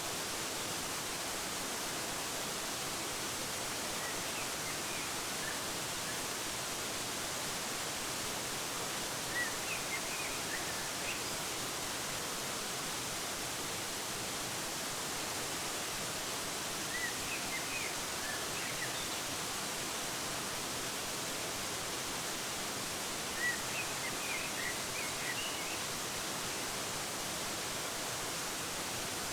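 Waterfall rushing steadily, with small birds chirping in short clusters over it four times.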